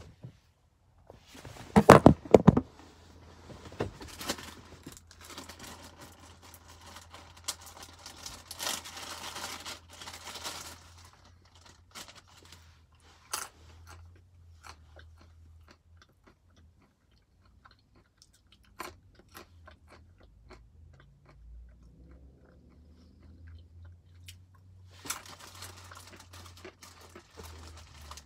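Almonds being crunched and chewed inside a car, in stretches with quieter gaps between. A cluster of loud knocks about two seconds in is the loudest sound.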